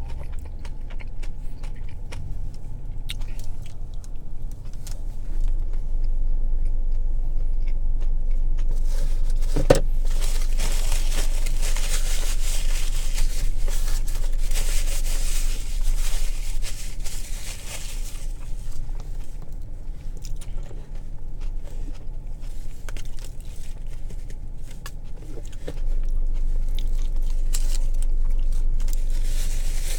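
Close-up chewing and biting of a toasted sub sandwich, with wet mouth noises and crunchy bites that come and go, over a steady low hum.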